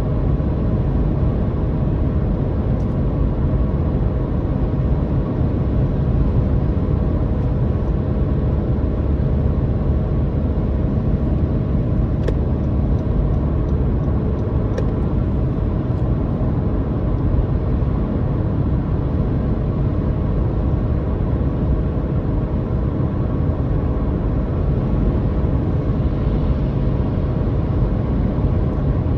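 Car driving at a steady speed: an even engine drone and low road rumble that does not change, with a couple of faint ticks near the middle.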